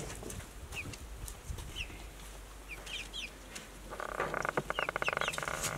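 Chickens calling: a few short, high chirps, then about four seconds in a louder, buzzy, drawn-out chicken call that runs to the end.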